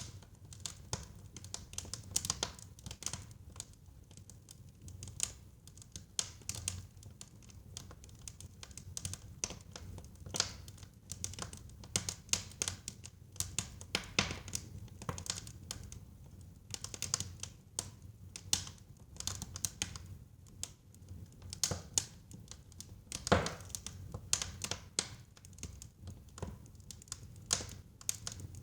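Wood fire burning in a fireplace: irregular crackles and pops over a low rumble of flame, with one louder pop near the end.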